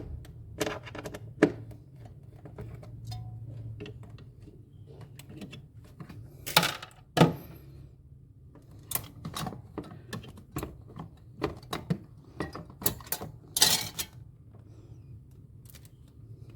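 Irregular clicks, taps and short scrapes of hard parts and tools being handled during refrigerator disassembly, with a low steady hum underneath.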